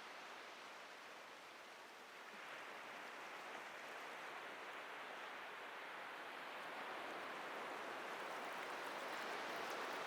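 Ocean surf washing on a beach: a steady wash that eases slightly about two seconds in, then builds gradually as a wave comes in, with a faint fizzing of foam near the end.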